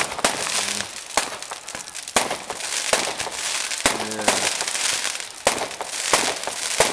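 Fireworks bursting overhead: sharp bangs at irregular intervals, with stretches of dense crackling between them.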